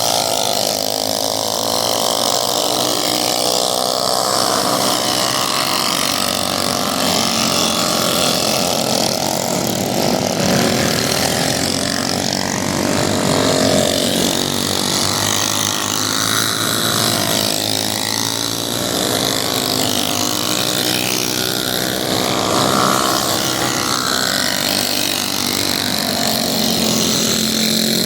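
Several racing minibike engines running hard together, their pitch rising and falling as the riders rev up and back off.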